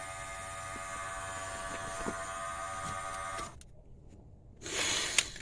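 Autool smoke leak tester's air pump running with a steady electric buzz, cutting off suddenly about three and a half seconds in. A brief hiss and a sharp click follow near the end.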